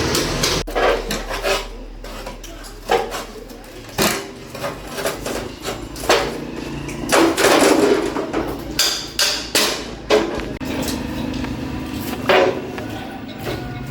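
Hammer blows on metal machine parts: about a dozen irregular strikes and clanks, roughly one every second, with a few louder ones.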